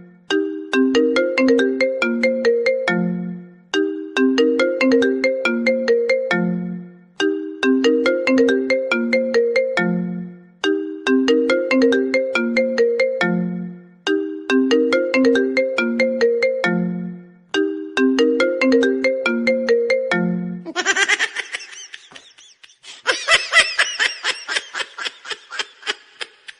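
A phone ringtone melody, a short falling phrase of separate notes ending on a low note, repeating about every three and a half seconds, six times. About 21 s in it switches to a different, denser and harsher sound.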